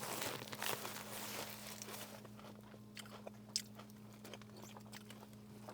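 A person chewing and biting crunchy snack food, with scattered faint crunches and crackles over a steady low hum.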